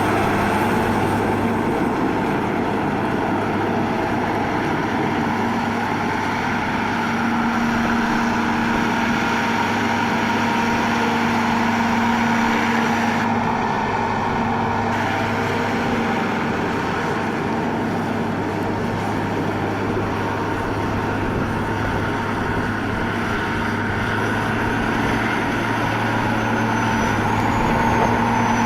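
Challenger MT955C articulated 4WD tractor's diesel engine running steadily, a constant drone that holds an even pitch.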